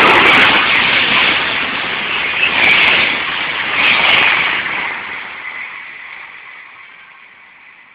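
Electric passenger train passing through the station at speed: a loud rush of wheels on rail and air, fading steadily over the last three seconds as it draws away.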